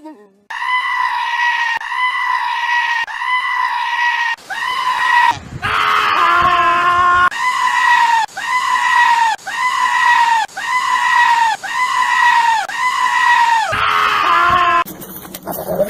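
A goat screaming over and over: a high-pitched call about a second long, repeated about once a second. A lower call joins in briefly about six seconds in.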